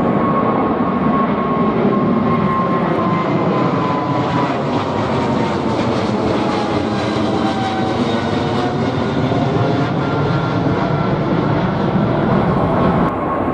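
Jet airliner passing close by: a loud, steady engine roar with a high whine that drops slightly in pitch as it goes past.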